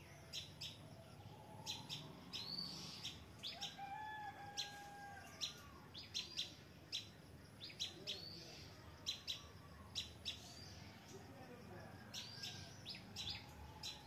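Small birds chirping: short, sharp high-pitched chirps, some with a quick upward sweep, repeated irregularly, with a lower whistled note a few seconds in.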